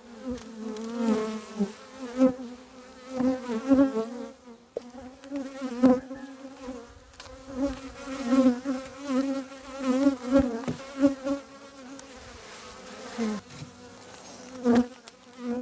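Honey bees buzzing around an opened hive: a steady hum whose loudness swells and fades as individual bees fly close by.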